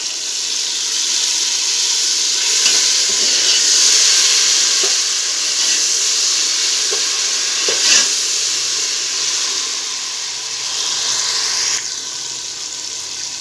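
Chopped tomatoes sizzling in hot oil with fried onions in a large metal pot, stirred with a metal spoon that clicks against the pot a few times. The sizzle is loudest a few seconds in and eases off toward the end.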